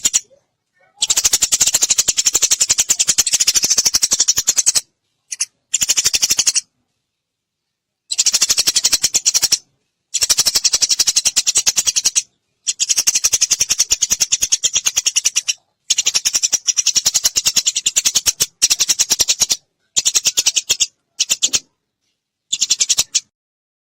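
Eurasian tree sparrows chattering: very rapid trains of high chirps, many a second, in about ten bursts of up to four seconds that start and stop abruptly.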